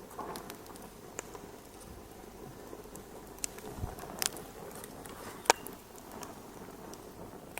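Wood fire burning in a fireplace: a steady soft hiss with irregular sharp pops and crackles, the loudest about five and a half seconds in.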